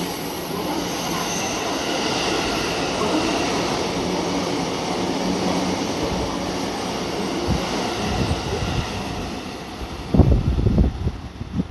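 Tsukuba Express TX-3000 cars, unpowered and towed in a rail delivery train, rolling through the station at speed: a steady rumble and clatter of wheels on rail that fades after about eight seconds. Gusty wind buffets the microphone near the end.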